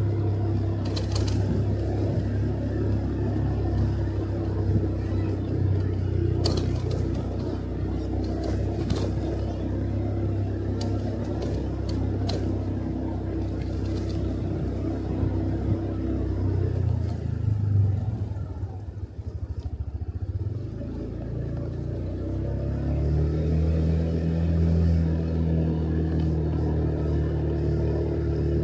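Motorcycle engine running steadily under the rider, with several sharp knocks in the first half. About two-thirds of the way through, the engine drops off throttle briefly, then rises in pitch as it accelerates again.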